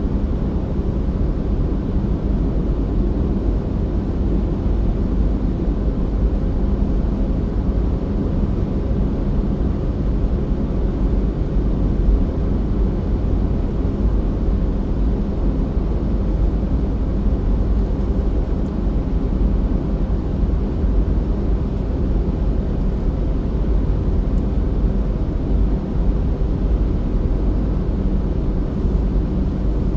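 Car driving steadily, a constant low rumble of engine and road noise that does not change.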